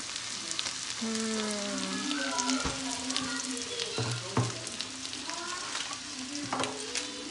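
Sliced ivy gourd (kundru) frying in oil in an aluminium kadhai: a steady crackling sizzle, broken by a few sharp knocks.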